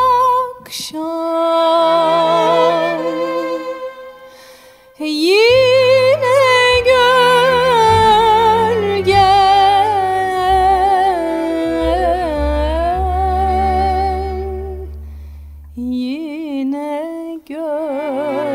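Music: a voice sings long notes with a wavering pitch over held low bass notes. It fades out about four seconds in and starts again a second later.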